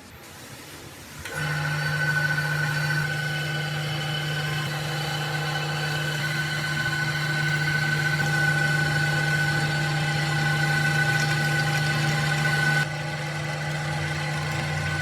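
A small motor running steadily at a constant speed with an even hum, starting about a second in and cutting abruptly near the end.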